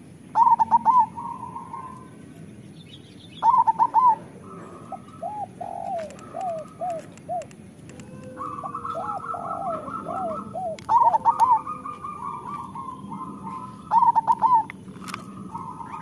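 Zebra doves (perkutut) cooing: four loud phrases of quick rolling coos, with softer, lower coos between them.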